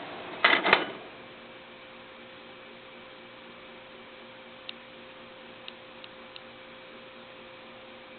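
Small ventilation fan with repaired plastic blades running with a steady hum. About half a second in there is a short loud clatter, after which the running noise drops to a fainter steady hum with a thin tone and a few light ticks.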